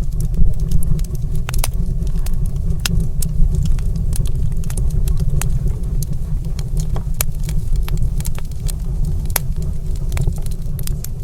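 Wood fire crackling in a stone fireplace: sharp, irregular pops and snaps over a steady deep rumble.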